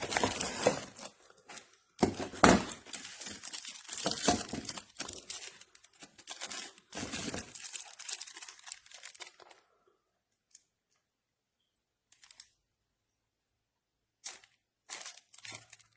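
Packaging being torn and crinkled by hand: a run of rustling tears for about nine seconds, then a few faint clicks and a short burst of handling noise near the end.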